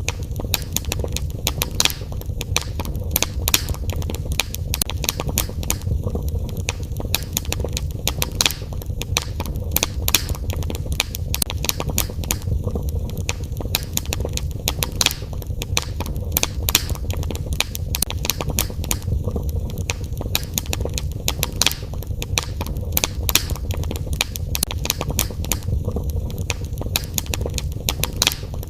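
Wood fire in a fireplace, crackling and popping in many sharp irregular snaps over a steady low rumble of the flames.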